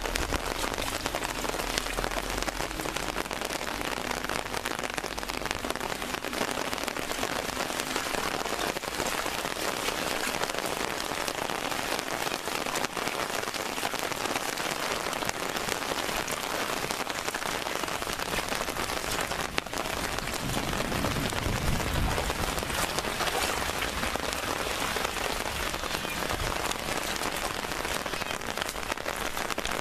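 Heavy rain falling steadily onto standing water and wet paving, a dense even hiss of raindrops, with a brief low rumble about twenty seconds in.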